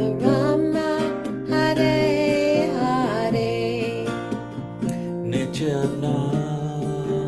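Kirtan music: a voice holding and bending a wavering melodic line over steady sustained instrumental chords, the melody sliding down about three seconds in.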